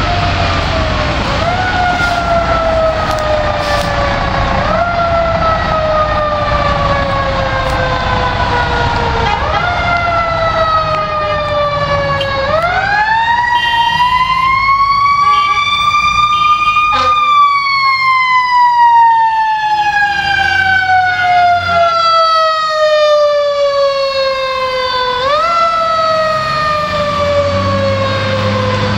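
Siren of a 2005 Pierce Arrow XT fire engine on an emergency run. Its pitch climbs quickly and falls slowly several times in a row, then makes one long climb and a long slow fall before rising again near the end. Under it is the low rumble of the truck's engine.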